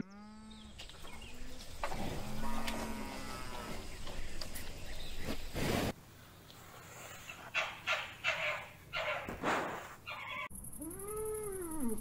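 Cattle mooing in long, low calls. After that comes a stretch of short, sharp animal noises. Near the end a calf gives higher-pitched moos.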